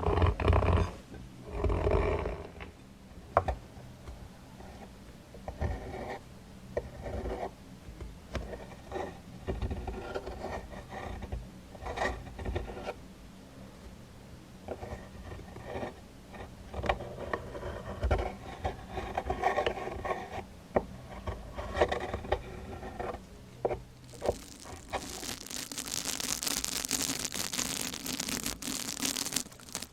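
ASMR trigger sounds made close to the microphone: irregular scraping and rubbing strokes with a few sharp clicks, giving way about three-quarters of the way in to a dense, steady crinkling hiss.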